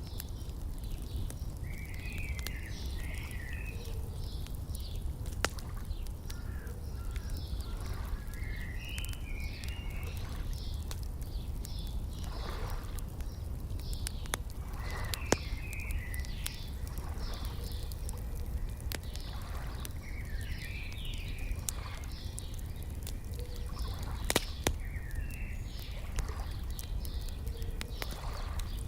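Wood fire crackling, with scattered sharp pops, the loudest about 15 and 24 seconds in, over a low steady rumble. Small birds sing short chirping, warbling phrases every few seconds.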